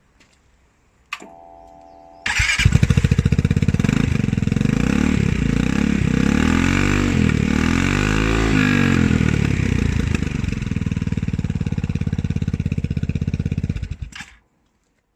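Royal Alloy GP300 scooter's single-cylinder four-stroke engine starting through a Scorpion aftermarket exhaust with its baffle fitted: a short starter whir, then the engine catches and runs, revved up and down a few times, before being switched off near the end.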